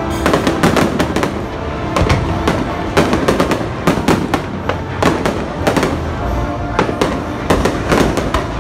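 Fireworks display: a rapid, irregular string of sharp bangs and crackles from bursting shells, with music playing underneath.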